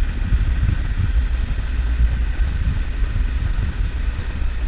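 Triumph Tiger 1200 motorcycle's three-cylinder engine running steadily while riding on a dirt road, under a heavy low rumble of wind on the microphone.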